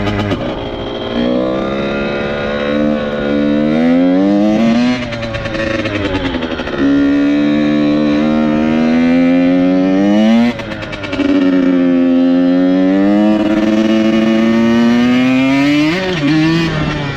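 Dirt bike engine under way, revving up and shifting through the gears: the pitch climbs, then drops back sharply at each shift, about four times.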